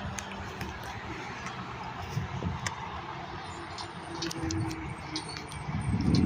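Road traffic: vehicle engines running with tyre noise, growing louder near the end as a heavy vehicle comes closer.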